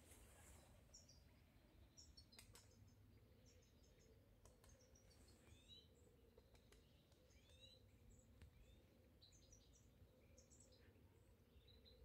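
Near silence outdoors, with faint small-bird chirps and short gliding calls repeating through it over a low steady background hum.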